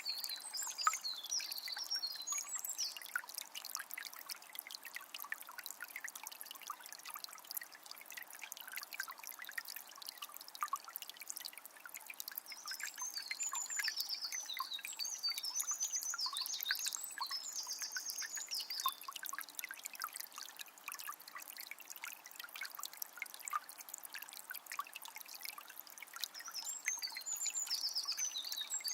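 A small spring's water trickling and splashing without a break. Over it a songbird sings short phrases of quick repeated high notes: near the start, for several seconds in the middle, and again near the end.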